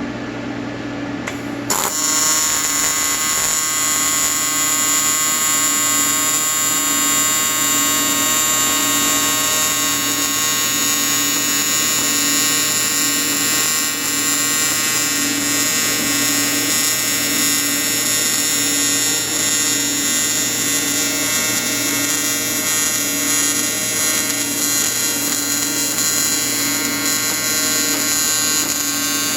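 Electric welding arc buzzing steadily after it strikes suddenly just under two seconds in, over the low steady hum of the welding machine.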